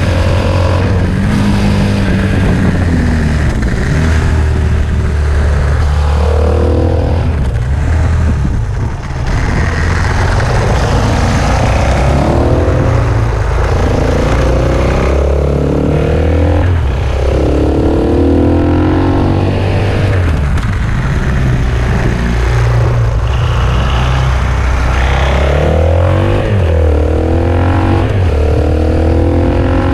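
KTM 690 SMC-R's single-cylinder engine being ridden hard: its pitch rises as it revs up and then drops back, again and again, as it accelerates through the gears.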